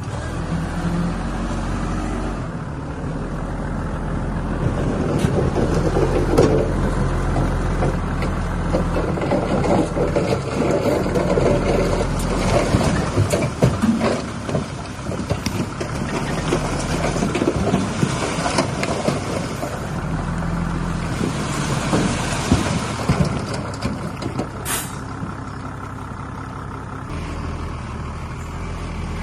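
Heavy diesel earthmoving machinery working: a steady low engine drone under rough clatter and scraping that swells for most of the stretch, then eases off. A short sharp hiss of air comes near the end.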